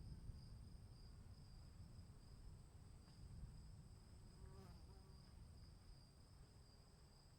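Faint, steady insect trilling, typical of crickets, in two high pitches over a low rumble. A brief chirp comes about halfway through.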